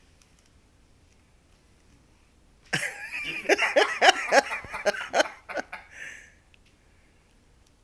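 A person laughing hard for about three and a half seconds, a rapid run of breathy laughs, about five a second, that starts suddenly and trails off.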